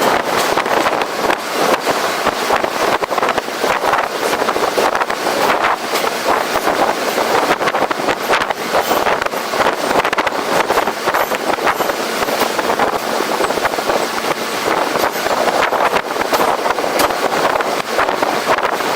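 Wind buffeting the microphone of a camera riding on the roof of a moving New York City subway train, over the train's running noise, with frequent short clicks and knocks.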